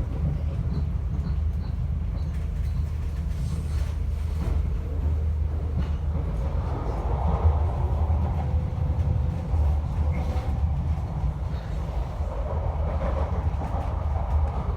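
A passenger train running, a steady low rumble throughout.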